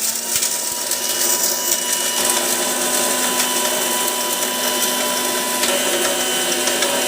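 Electric mixer-grinder running at full speed, grinding whole garam masala spices dry to a powder, with a steady motor whine and the spices rattling in the steel jar; it cuts off suddenly at the end.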